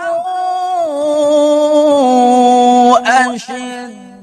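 Male Qur'an reciter (qari) singing a long melismatic held note in tilawah style. The voice steps down in pitch, turns a quick ornament about three seconds in, then settles on a lower, softer note.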